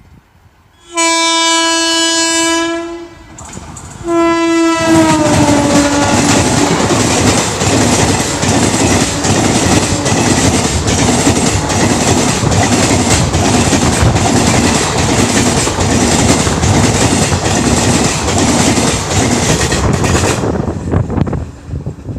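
Indian Railways train passing at speed: the locomotive sounds its horn twice, the second blast dropping in pitch as it goes by. The coaches then clatter past over the rail joints in a loud, steady rush until the sound cuts off suddenly near the end.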